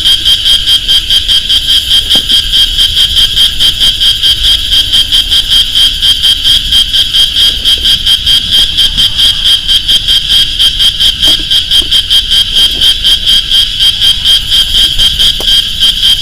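Loud chorus of frogs calling: a high-pitched trill that pulses rapidly and evenly, about four to five pulses a second, without a break.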